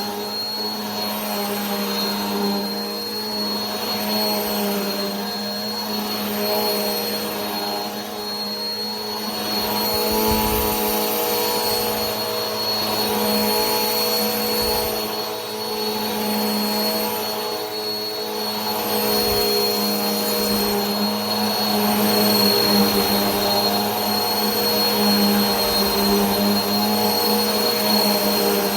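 Vacuum cleaner running steadily: a continuous motor hum with a thin high whine over a rush of air.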